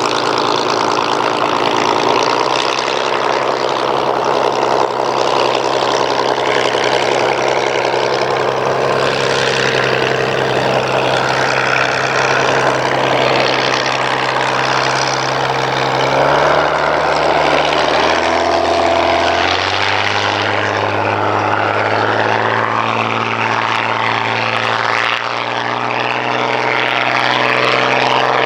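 Hawker Hurricane's Rolls-Royce Merlin V12 piston engine running steadily with its propeller turning. About two-thirds of the way through its note shifts and rises briefly as the throttle changes, then settles at a new steady pitch.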